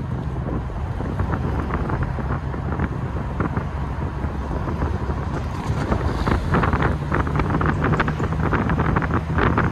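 TVR's V8 engine burbling at low town speed in an open car, with wind buffeting the microphone. The engine note firms up and a run of crackles comes in from about six seconds in.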